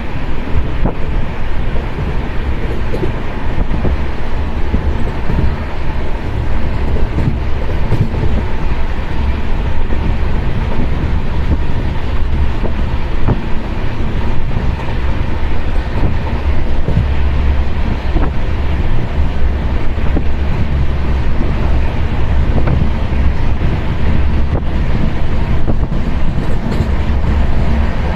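Passenger train rolling past along the platform: a steady heavy rumble with the clatter of wheels over rail joints.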